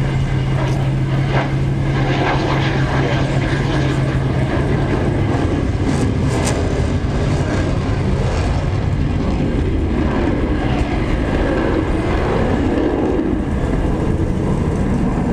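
Aircraft engine running steadily and loud, with a low steady hum that fades about five seconds in and returns near the end.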